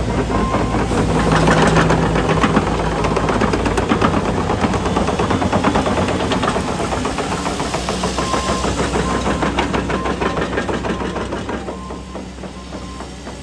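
Caterpillar CAT 310 excavator's diesel engine running hard with a dense, rapid metallic clatter, which fades somewhat near the end. Its travel alarm beeps at the start and again in the last few seconds.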